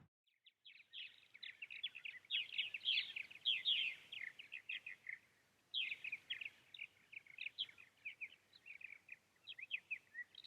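Small birds chirping and twittering around a stock pond in quick, high, rapid series: a first bout, a short pause about halfway through, then a second bout.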